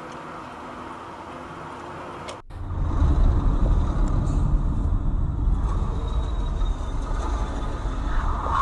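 Road and engine noise from a moving car recorded by a dashcam: a steady hiss, then after a sudden cut about two and a half seconds in, a louder, steady low rumble.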